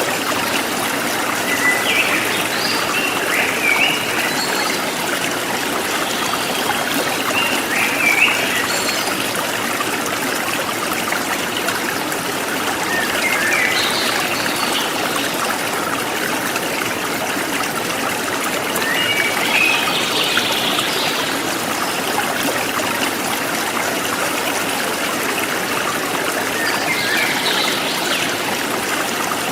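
Forest stream trickling and flowing steadily, with short bursts of bird chirping about five times, a few seconds apart, over the water.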